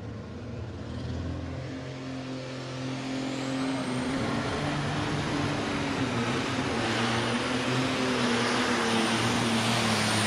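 Alcohol-burning super stock pulling tractor engine running at full throttle under load while pulling the sled, with a high turbocharger whine that climbs in pitch over the first few seconds and holds. The sound grows steadily louder through the run.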